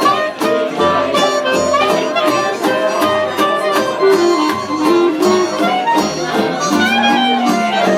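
Live country band playing an instrumental break: a clarinet carries the melody over acoustic guitar and a steady bass line, with bass notes about twice a second.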